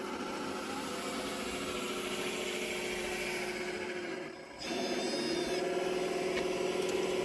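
Motors of a radio-controlled model construction machine running with a steady whine. The sound drops away briefly about four and a half seconds in, then starts again.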